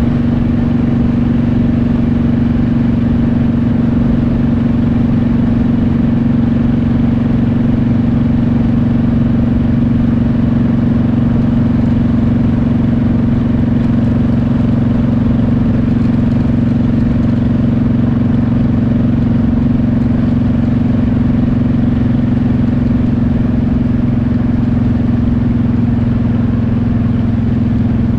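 Motorcycle engine running at a steady cruising speed, one unchanging hum with a constant pitch throughout, under a wash of road and wind noise.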